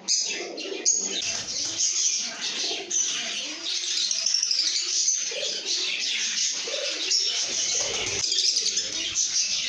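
A flock of lovebirds chattering and chirping nonstop, many high, overlapping calls at once, with lower calls mixed in underneath.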